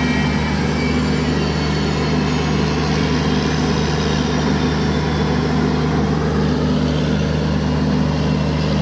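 Train locomotive's engine running with a steady, deep drone that holds one pitch throughout.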